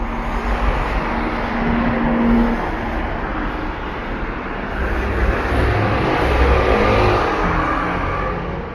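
Road traffic: a motor vehicle driving past, its engine and tyre noise swelling to a peak about six to seven seconds in, then fading.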